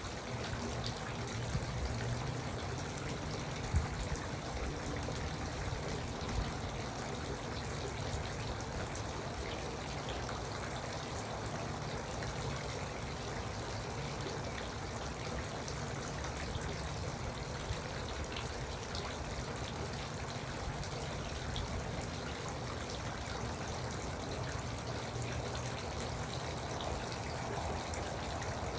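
Garden water fountain trickling and splashing steadily.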